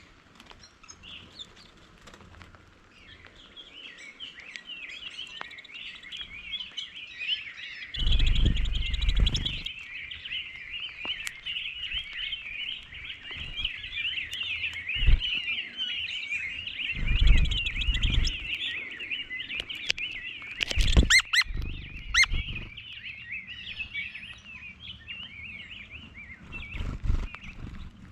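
Many small birds chirping together in a dense, continuous chatter. A few low thuds or rumbles come through now and then, the loudest about a third of the way in and again in the second half.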